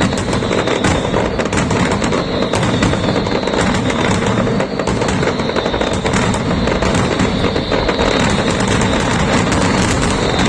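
Fireworks finale: a dense, continuous barrage of shell bursts and crackling, one report running into the next with no pause.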